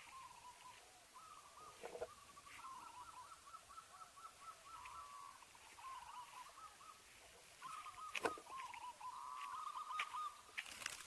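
Zebra dove (perkutut) song: repeated runs of soft, rapid cooing notes, heard faintly, with a few sharp clicks in between.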